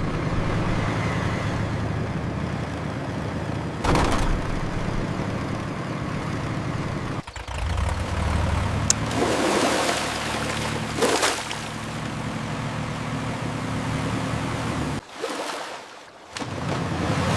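Heavy vehicle engine running steadily, with loud hissing bursts about four seconds in and again around nine to eleven seconds in. The sound drops away briefly near the end.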